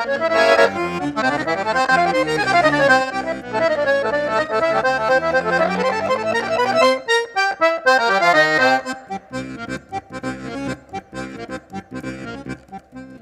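Accordion (sanfona) playing fast melodic runs over full chords. About nine seconds in the playing drops to a quieter passage: a held note with short, evenly spaced percussive strokes.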